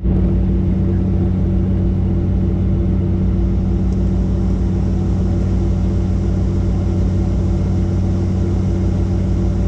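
Helicopter running steadily: a loud, even drone of engine and rotor with several low steady tones.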